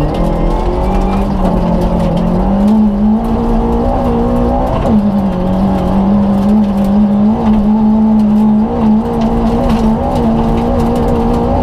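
Lada VFTS rally car's four-cylinder engine heard from inside the cabin, running hard at high revs under full throttle. Its pitch climbs, drops sharply once at an upshift about five seconds in, then climbs and holds. Loose gravel clicks under the car.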